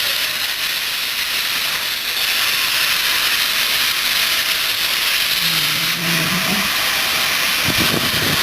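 GWR steam locomotive letting off steam: a steady loud hiss that grows stronger about two seconds in.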